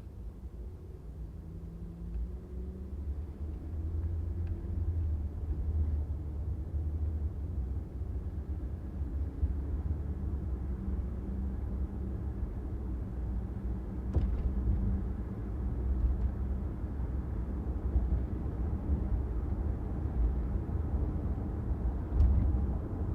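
A car driving on a city street: a steady low rumble of road and engine noise that grows louder over the first few seconds, with a couple of faint ticks.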